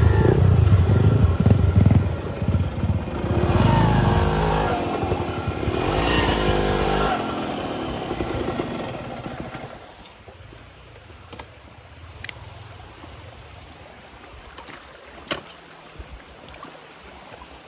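Trail motorcycle engine revving up and down, then fading away about seven to ten seconds in; after that only a faint background with a few sharp clicks.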